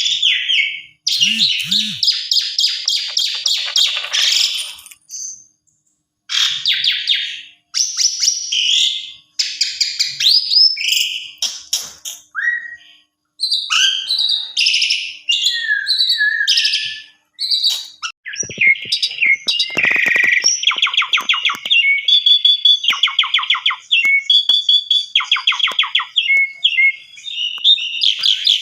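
Pied starling (jalak suren) singing loudly in phrases of varied whistles and chatter, with short pauses between them. About two-thirds of the way through, the song turns into a long run of fast, repeated rattling notes.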